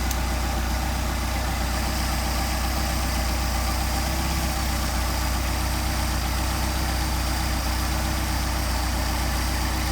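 Mercedes-Benz 190SL four-cylinder engine on twin Solex carburetors idling steadily at about 800 rpm while the carburetors are being balanced.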